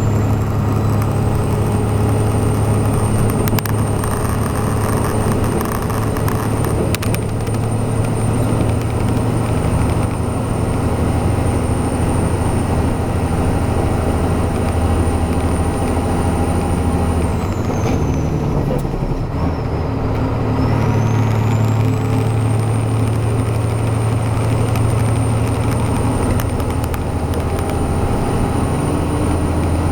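Heavy truck's diesel engine running steadily under load, with a thin high whine above it. About two-thirds of the way through, the whine falls away and the engine note shifts, then the whine climbs back and holds steady.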